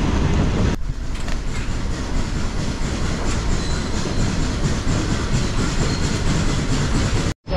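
Train running along the track: a steady rumble with the clicking of wheels over rail joints. The sound changes abruptly about a second in and drops out for a moment near the end.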